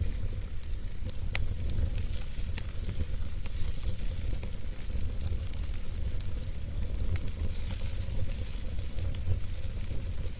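Wood fire burning in a fireplace: a steady low rumble and hiss with frequent sharp crackles and pops scattered throughout.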